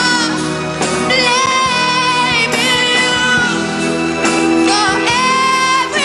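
A woman singing long held notes with ornamented bends in pitch, over steady instrumental accompaniment.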